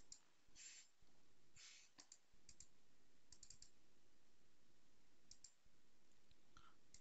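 Faint computer keyboard keystrokes and mouse clicks, a few scattered clicks spread irregularly over quiet room tone.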